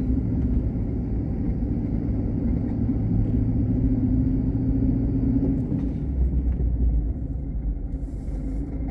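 Car driving, heard from inside the cabin: a steady low engine and road rumble with a hum that fades about five and a half seconds in, after which the level eases a little.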